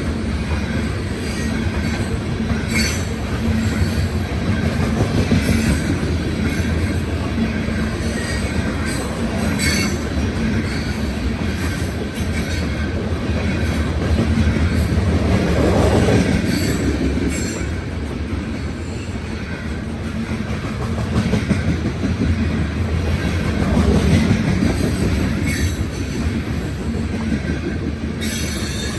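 Loaded coal hopper cars of a long unit coal train rolling past: a steady rail rumble with the wheels clicking over rail joints every few seconds, swelling briefly twice.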